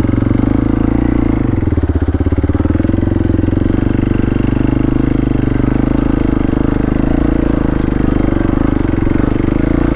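Off-road motorcycle engine running steadily and loudly on the throttle as the bike is worked through deep mud.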